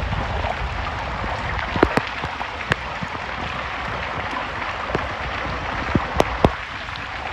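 Heavy rain pouring down in a steady dense hiss, with a few sharp taps of drops striking close by.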